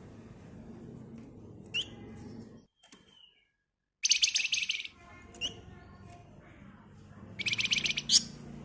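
Flamboyan (Javan fulvetta) songbird calling: a few short rising chirps and two loud, fast rattling trills, one about four seconds in and one near the end. The sound drops out briefly about three seconds in.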